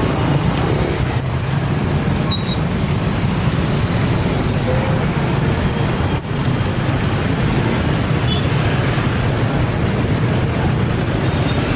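Steady, loud vehicle noise with a deep rumble, dipping briefly about six seconds in.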